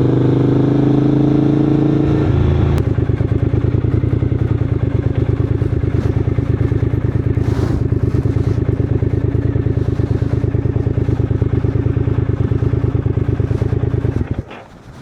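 Triumph Scrambler 900's parallel-twin engine running at higher revs for about two seconds, then dropping to a steady, evenly pulsing idle. It cuts off abruptly just before the end as the engine is switched off.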